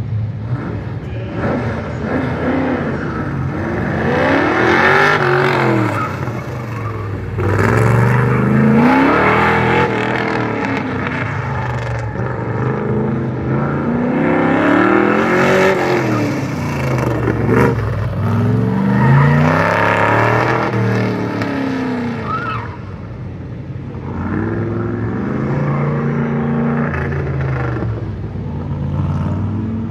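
A Corvette running an autocross course, its engine repeatedly revving up and dropping off every couple of seconds as it accelerates out of turns and lifts for the next cones.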